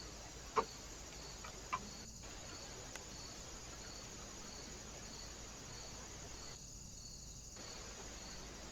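Cricket chirping steadily, short high chirps about twice a second, with two sharp taps in the first two seconds.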